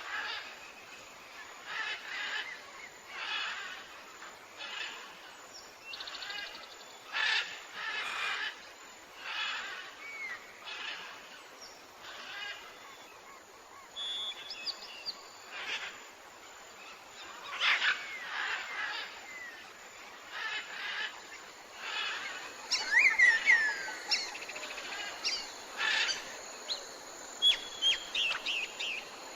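Tropical forest bird chorus: birds calling in short repeated notes about once a second, with quick falling whistles and higher chirps mixed in.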